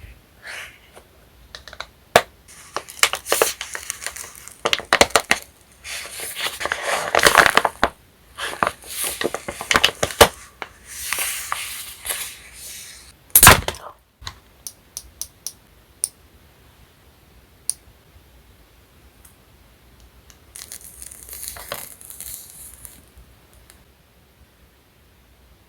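Packaging being torn open and crinkled by hand, in irregular bursts of rustling with sharp clicks. About halfway through there is a single sharp, loud crack, then a few light ticks and a last short stretch of rustling.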